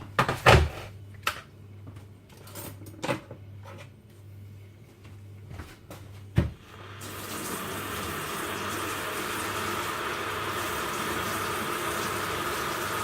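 A few knocks and clatters of cups and crockery, then about seven seconds in a tap is turned on and water runs steadily into a sink.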